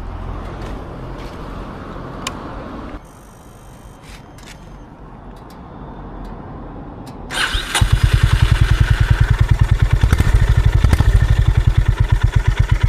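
Honda CB350 H'ness motorcycle's air-cooled single-cylinder engine being started: a short burst of cranking about seven seconds in, then the engine catches and idles with a loud, even, rapid pulse. Low background noise comes before it.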